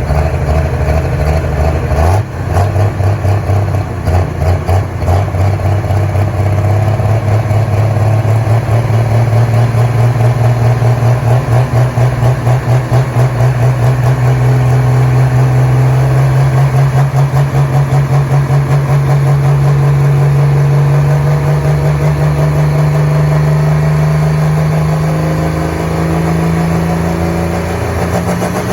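A pulling truck's engine running hard under heavy load, loud and continuous. It pulses unevenly for the first several seconds, then its note climbs slowly and steadily through the pull.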